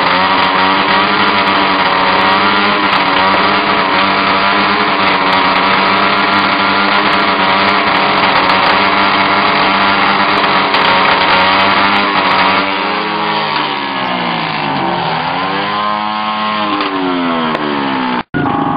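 Engine held at high revs with an even, steady drone, fed to a flame-thrower exhaust. About thirteen seconds in, the revs drop, climb again and fall once more. The sound cuts out for an instant just before the end.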